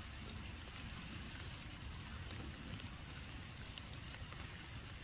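Light rain: scattered faint drop ticks on wet leaf litter over a steady soft hiss.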